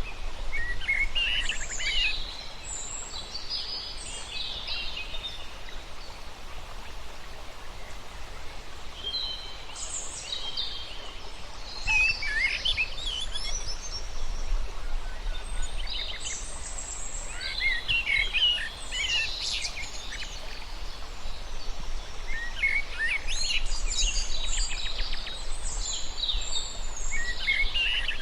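Birds chirping and singing in bouts of quick high-pitched notes a few seconds long, with short pauses between, over a steady low background noise.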